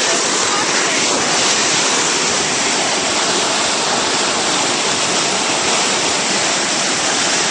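Loud, steady rushing of flood-swollen water.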